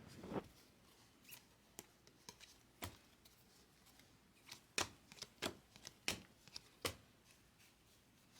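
Baseball trading cards being handled and flipped through one by one. The sound is a quiet run of short, irregular clicks and snaps as the cards slide and tap against each other.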